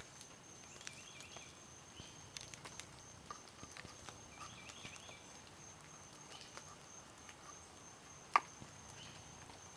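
Faint hand-working of pie dough: soft taps and small clicks, with one sharper click about eight seconds in. Faint high chirping comes twice, over a steady high whine.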